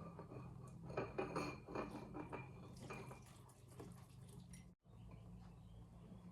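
Kitchen utensil clinking and scraping against a mixing bowl while hot milk is stirred into egg yolks and corn flour, over a steady low hum. The clinks are busiest in the first few seconds, and the sound cuts out briefly near the end.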